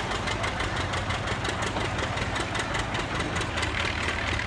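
Farm tractor engine running steadily with an even, rapid beat.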